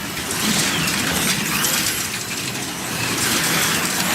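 Slot cars running on the track, their small electric motors whining in repeated rising and falling sweeps over a steady hiss of the cars on the track.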